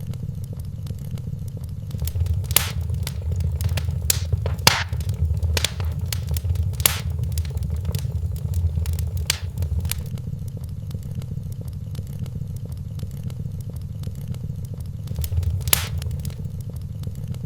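Wood fire crackling in a fireplace over a steady low rumble, with a run of sharp pops from about two to ten seconds in and one more loud pop near the end.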